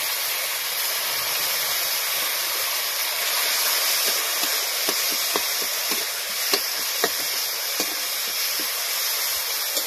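Onion and ground spice pastes sizzling in hot oil in a kadai, a steady hiss. From about halfway through, a metal spatula scrapes and taps against the pan in short sharp clicks.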